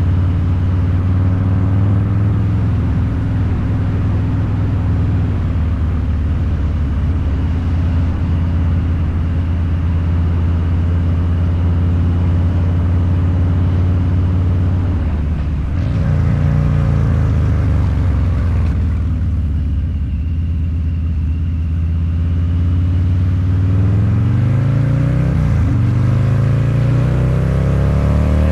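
Harley-Davidson Low Rider's 129 cubic inch V-twin running through a Two Brothers Racing exhaust, held at a steady cruise for the first half. It eases off a little past halfway, then the pitch rises as it accelerates over the last few seconds, with a brief dip for a gear change.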